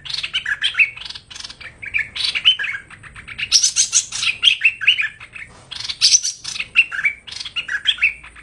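Song of the bird known in Vietnam as hoành hoạch: a fast, unbroken run of sharp chirps and whistled notes with only brief pauses, a call recording of the kind played to lure the bird into a trap.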